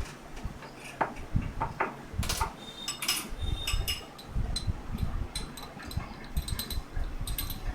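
A metal cooking pot being handled and set on a gas stove: scattered clinks and knocks, some ringing briefly, with dull low thuds between them.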